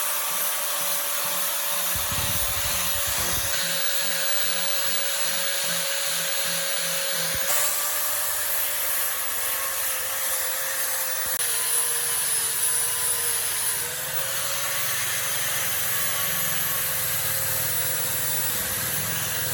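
Handheld electric power tool running continuously while working against a part, a steady rubbing, abrasive noise over a motor whine. The whine sags slightly in pitch now and then as the tool is loaded.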